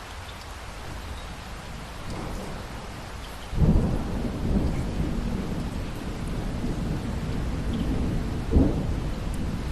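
Steady rain, then thunder breaks about three and a half seconds in with a sudden loud clap and a low rolling rumble that carries on, with another sharp crack near the end.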